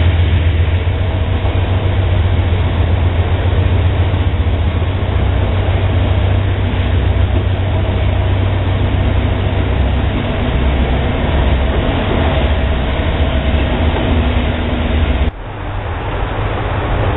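Loaded autorack freight cars rolling past, a loud steady rumble of wheels on rail. The sound drops abruptly about fifteen seconds in, then builds back up.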